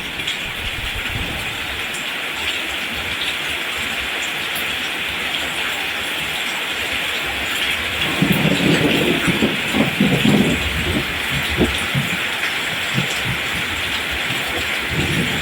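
Steady rain hiss falling on rice plants. A low rumble swells for about three seconds near the middle, and again briefly near the end.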